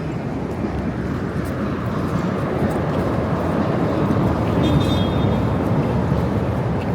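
Steady city traffic noise that grows gradually louder, with a brief high tone about five seconds in.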